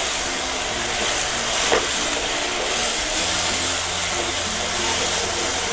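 Onion-tomato masala with freshly added ground spices sizzling steadily in oil in a non-stick frying pan as it is stirred with a wooden spatula, with one sharp knock of the spatula about two seconds in.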